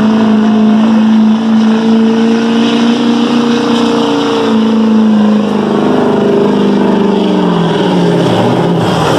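Chevy Duramax diesel pickup at full throttle pulling the sled, the engine held at a steady high pitch. From about halfway its pitch sinks steadily as the engine is pulled down under the sled's load.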